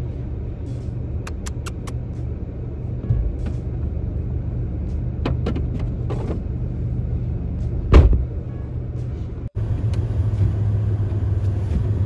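Steady low rumble of a car driving, heard from inside the cabin. A few light clicks come about a second and a half in, a thump about eight seconds in, and the sound cuts out for an instant shortly before ten seconds.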